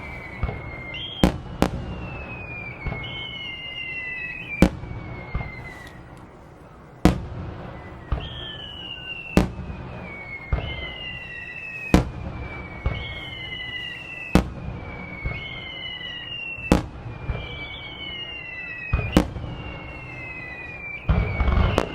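Aerial fireworks shells bursting in a rapid barrage, sharp bangs about once a second, many trailed by a high whistle that slowly falls in pitch, with a dense cluster of bangs near the end.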